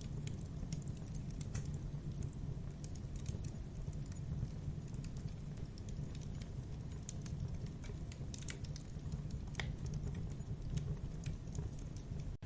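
Campfire burning, with a steady low rumble under irregular sharp crackles and pops from the burning wood.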